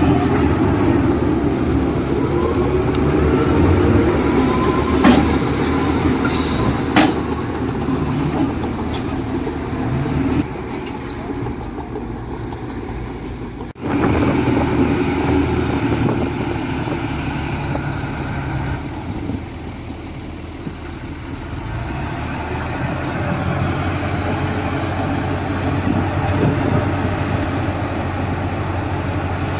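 Heavy diesel machinery running steadily, with a brief hiss about six seconds in. The sound breaks off abruptly about fourteen seconds in, then carries on.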